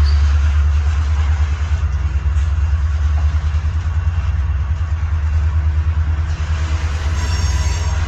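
Freight train running: a steady, heavy low rumble, with a faint high-pitched squeal near the end.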